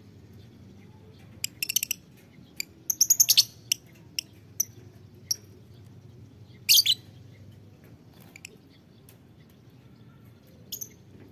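Lovebirds giving short, sharp, high-pitched chirps in quick clusters, with quieter spells between. A steady low hum runs underneath.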